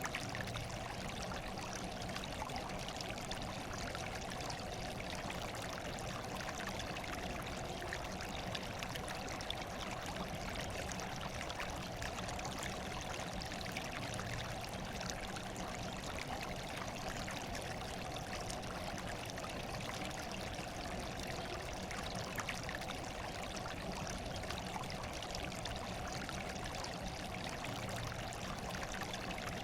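Water running steadily, an even, unbroken rush with a fine splashing texture.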